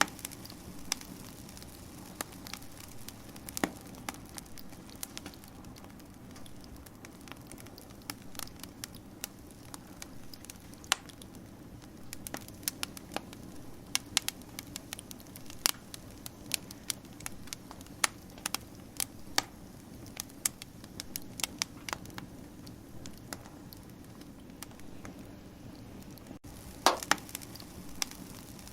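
Wood fire crackling: irregular snaps and pops over a low, steady rush of burning, with a louder burst of pops near the end.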